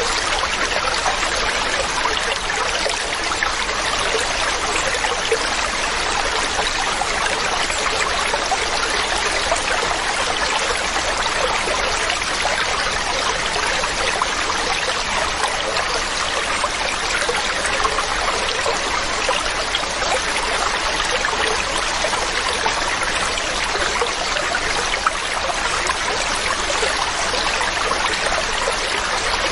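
Waterfall: a steady, unbroken rush and splash of falling water.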